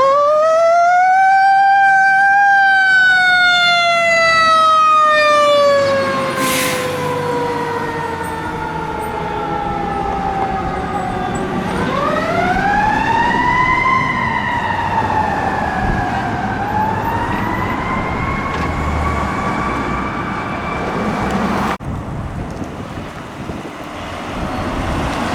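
Fire truck siren wailing. It climbs to a high pitch at the start and slowly falls over about ten seconds, then rises and falls again and climbs slowly. It cuts off abruptly a few seconds before the end, leaving a low vehicle rumble.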